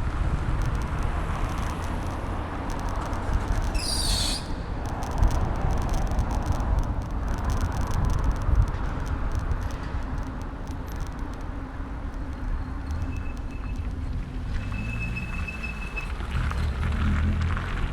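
Bicycle riding noise picked up by a handlebar-mounted camera: a steady low rumble of wind and road vibration with street traffic, a brief hiss about four seconds in, and a thin high tone twice near the end.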